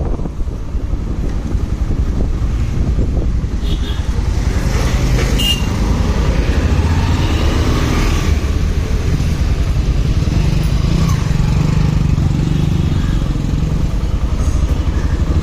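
Motorcycle engine running while riding on the road, a steady low drone.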